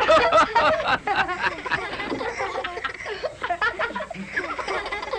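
A group of voices laughing and chattering together, loudest in a burst of laughter at the start.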